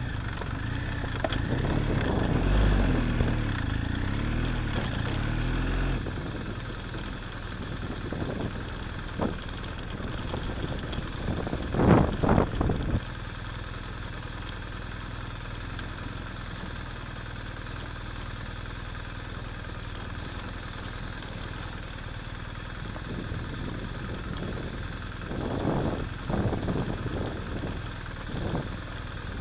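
Adventure motorcycle engine running on a dirt track, with its pitch rising and falling for the first six seconds, then a quieter, steadier drone. A few thumps cut through: a loud cluster about twelve seconds in and more around twenty-six seconds.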